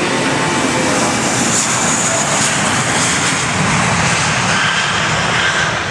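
Airbus A320 jet engines running loud and steady: a broad rushing roar with a high whine on top.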